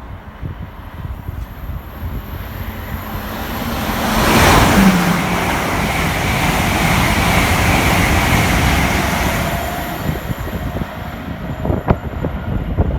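Train passing through a railway station: its noise builds over a couple of seconds, stays loud for about five seconds with a faint steady whine, then fades, with a few sharp clicks near the end.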